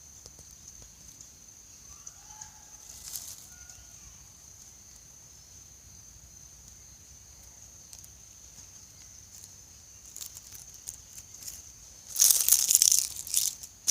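Quiet woodland ambience: a steady high-pitched insect drone, with a few faint bird chirps a few seconds in. Near the end comes a loud crackling rustle, like dry leaves or handling close to the microphone. No engine is heard yet.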